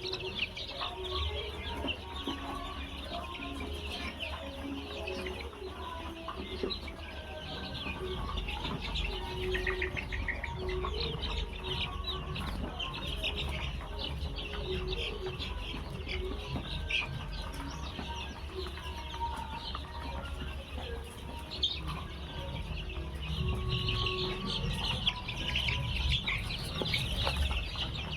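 A flock of desi (country) chickens and chicks calling throughout: soft, scattered clucks with many short, high peeps over them.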